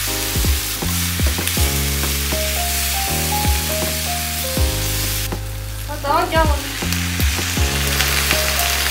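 Potatoes frying and being stirred in a wok on a gas burner: a steady sizzle with a spatula working the pan, under background music with a steady beat. The sizzle stops a little past halfway, leaving the music.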